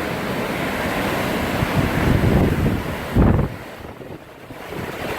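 Hurricane-force wind blowing hard, buffeting the microphone. It gusts a couple of seconds in and hits hardest just after three seconds, then drops away sharply for over a second before building again.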